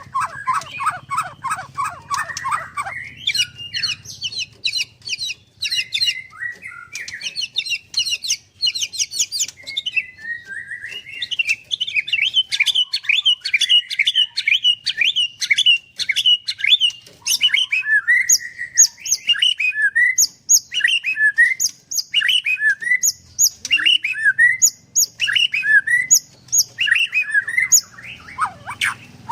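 White-rumped shama (murai batu) singing a long, varied song in full volley. It opens with a fast rattling run of repeated notes, moves through changing phrases, and from about two-thirds of the way on repeats the same down-slurred phrase with a high note about once a second.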